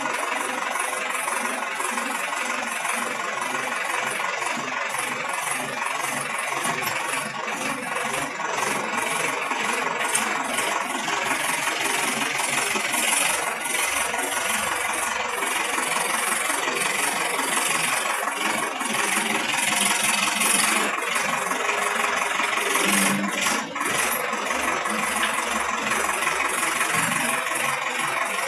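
Sonalika tractor's diesel engine running steadily as it drives a tractor-mounted post hole auger.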